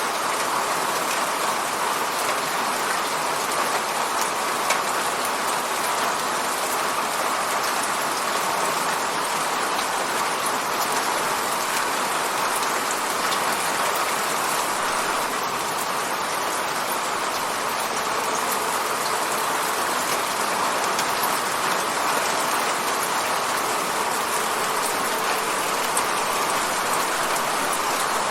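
Steady rain hitting a window, a constant hiss with scattered drop ticks.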